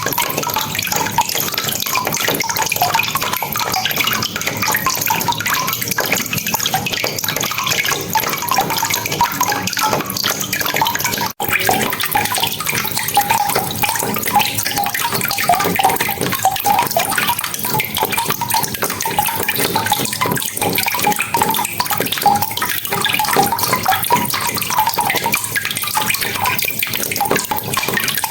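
Rain falling steadily, a dense patter with splashing drips of water. The sound drops out for an instant about eleven seconds in.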